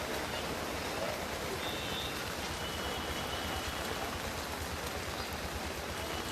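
Heavy monsoon rain falling steadily, a continuous even hiss of rain on surfaces.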